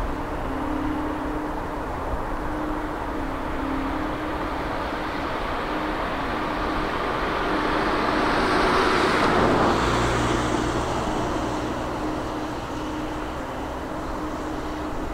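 Jet engines of a Boeing 777 airliner: a steady noise that swells to a peak about nine seconds in and then eases off as the aircraft passes.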